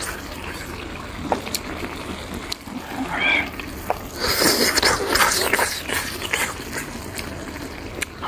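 A person eating: chewing and slurping, with a few small clicks of utensils and a denser stretch of wet eating noise in the middle.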